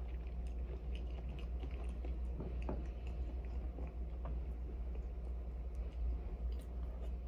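A person chewing food close to the microphone, with small soft clicks and crunches. A steady low hum runs underneath.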